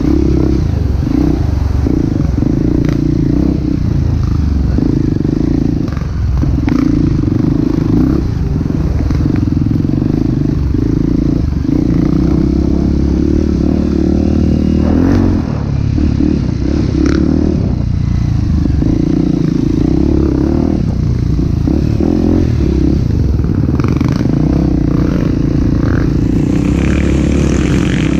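Off-road motorcycle engine running under throttle on a trail, its steady note dipping briefly every few seconds as the throttle is eased, with scattered knocks and clatter.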